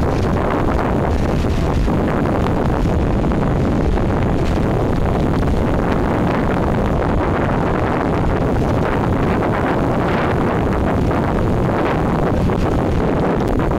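Steady wind noise buffeting the microphone on a moving passenger boat, over the boat's engine running at cruising speed.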